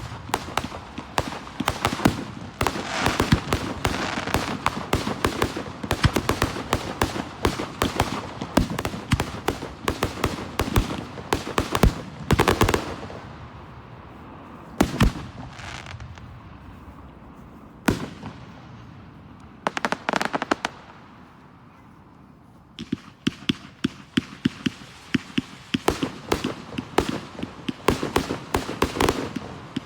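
Aerial fireworks display: rapid bangs and crackling salvos. They thin out to a few separate booms about halfway through, then build back into dense crackling near the end.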